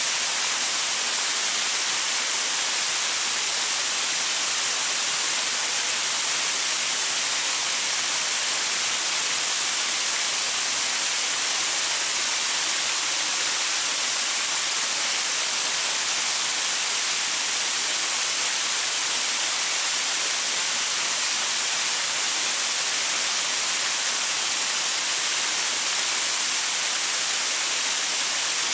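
Waterfall splashing onto rocks: a steady, unbroken rush of water, mostly high hiss with little low rumble.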